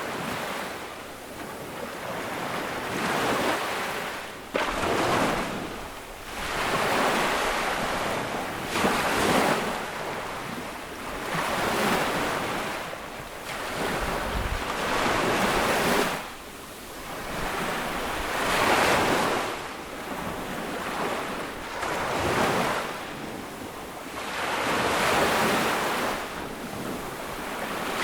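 Ocean waves breaking on a beach, each wave surging up and fading away, roughly every three seconds, with a steady hiss of surf between them.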